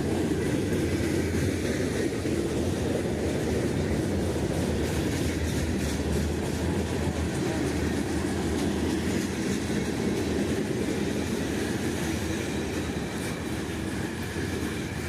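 Eastbound freight train's cars rolling past, a steady rumble of wheels on the rails with some clickety-clack, easing slightly near the end.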